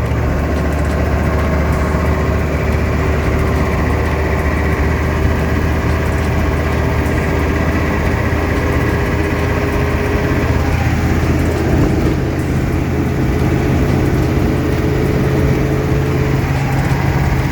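Hummer running steadily, heard from inside the vehicle: a constant low engine drone with a faint steady whine above it.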